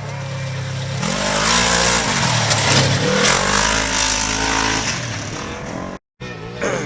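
Trophy truck racing past at speed on a desert course, its engine revving up and down through the gears and loudest about halfway through as it goes by. The sound breaks off briefly near the end.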